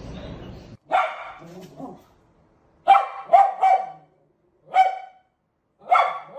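A dog barking about seven times in uneven groups: a loud single bark, a weaker one, a quick run of three, then two more single barks. A steady background hum from the start cuts off abruptly just before the first bark.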